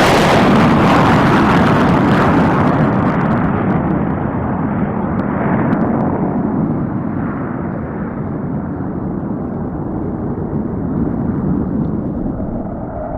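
Tornado GR4 jet flying past low, its twin-engine roar loudest at the start, then fading to a low rumble as the hiss dies away over the first few seconds while it flies off.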